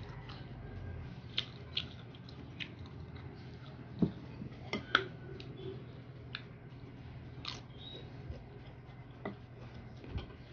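Close-up eating sounds: chewing crunchy green Indian mango slices, with scattered sharp clicks and crunches as a spoon scoops shrimp paste on a plate, over a steady low hum.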